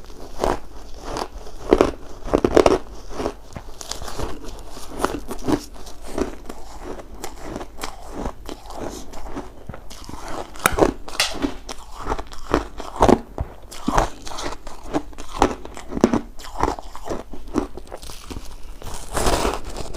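Shaved ice being bitten and chewed close to the microphone: an irregular run of crisp crunches, several a second.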